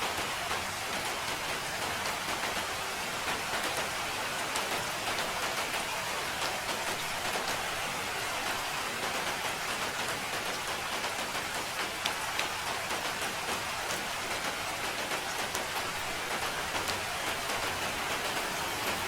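Steady rain falling: a dense, even hiss of rain with many small individual drop ticks.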